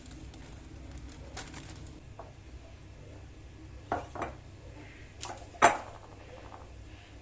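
Dishes and cutlery being handled: a few light clicks, a pair of knocks, then a louder sharp clack with a brief ring near the end.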